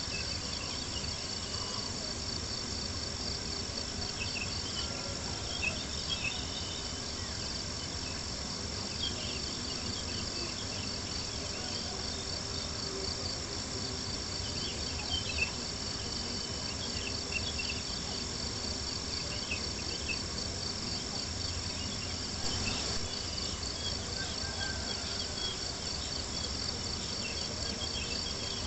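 Crickets chirping steadily in a dense high trill, with a campfire crackling in scattered small pops over a low rumble.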